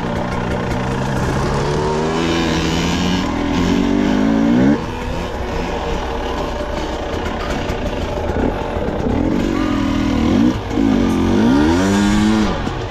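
Two-stroke dirt bike engine accelerating: the pitch climbs steadily for about five seconds, drops sharply as it changes gear, then rises and falls again with more throttle near the end.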